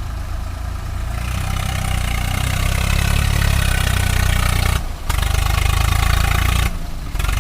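Swaraj 744 tractor's diesel engine running hard under load, building up about a second in, with two brief sudden breaks in the sound near the middle and near the end.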